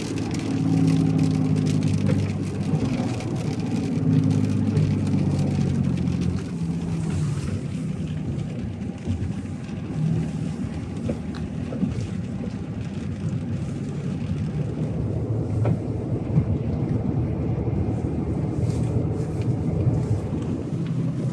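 Truck engine and road noise while driving a twisty road, the engine note rising and falling as it pulls and eases off.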